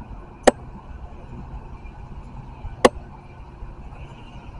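Metra commuter train pulling away: a low steady rumble, with two sharp clicks about two and a half seconds apart.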